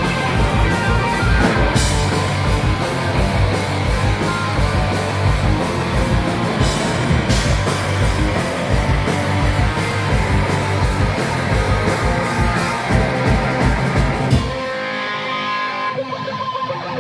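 Live rock band playing loud, with electric guitars over fast, dense drumming. About 14.5 seconds in, the drums and low end cut out, leaving a lone electric guitar picking notes.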